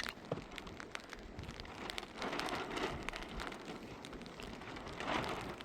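Rain falling, with many scattered ticks of drops and a sharp click right at the start; the rain swells twice, about two seconds in and near the end.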